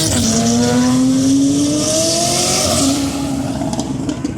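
A vehicle engine accelerating hard: its pitch drops right at the start as if shifting up, then climbs steadily for about three seconds and levels off, with a high hiss over the middle.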